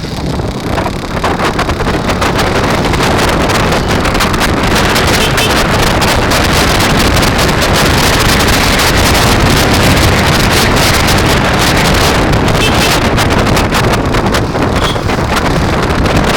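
Wind buffeting the microphone while riding, a loud, dense rush with rapid flutter that builds over the first couple of seconds and then holds steady.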